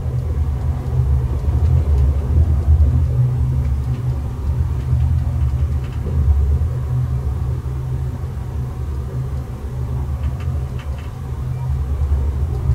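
Steady low rumble of a moving passenger train heard from inside the carriage, with a few faint clicks partway through and near the end.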